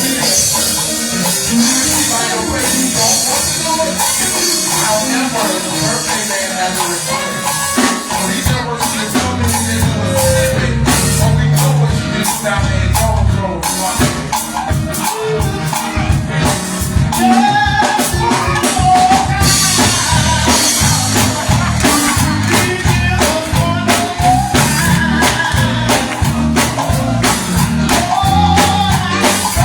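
Live gospel band music: drum kit, bass and tambourine with voices singing. The drums and bass come in strongly about a third of the way through, and a sung melody is clear in the second half.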